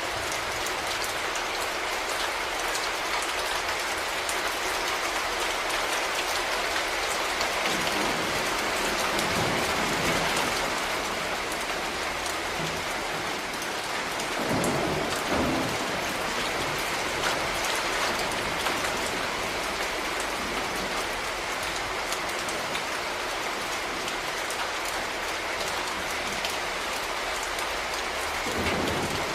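Steady rain falling on a surface, a continuous even hiss of many drops. A few brief low rumbles rise under it, the clearest about halfway through.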